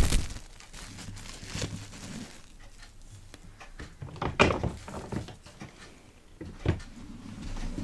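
Scattered soft taps and clicks of an object handled close to the microphone as an ASMR trigger, with a louder knock about halfway through and another near the end.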